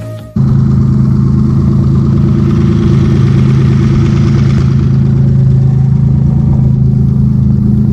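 Twin-engine Mazda MX-3's engines running at a steady pace on the road: a loud, even drone. It starts suddenly just after the beginning, with a little more hiss in the middle.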